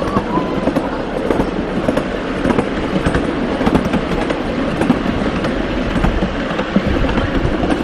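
Mini train running along its track: a steady rumble with rattling clicks from the wheels on the rails.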